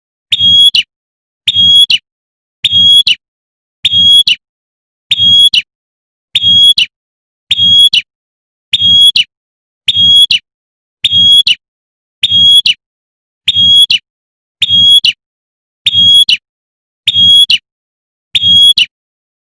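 Female prinia (prenjak) giving its sharp 'tembakan' call: one short, high burst repeated in a steady loop about once every 1.2 seconds, with a faint low thump under each. It is the female's call to a male, played as a lure.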